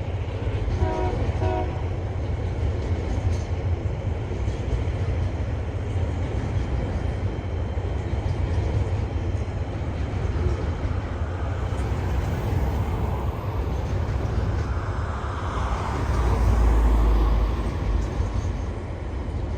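TasRail diesel freight train passing, with a steady rumble of wagons on the rails. Two short toots sound about a second in, and a deeper, louder rumble swells near the end.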